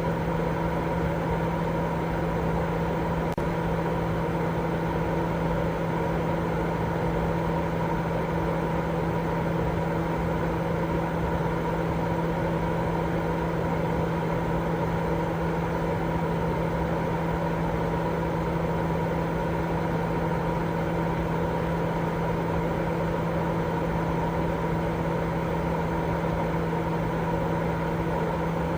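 Continuous baby-sleep white noise: an even, unchanging rush with a steady low hum and a couple of higher held tones, closer to a running motor or appliance than to pure hiss.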